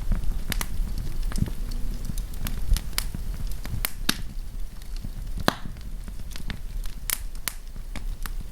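Wood campfire burning with a low steady rumble and irregular sharp crackles and pops, one of the loudest snaps about five and a half seconds in.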